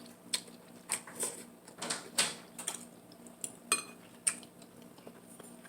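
Eating utensils clinking against a dish: about eight short, irregular clinks and taps while food is picked up.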